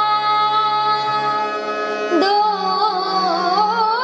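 A girl singing a Hindi Krishna bhajan to harmonium. A long held note gives way about two seconds in to a new note with a wavering, ornamented melodic line.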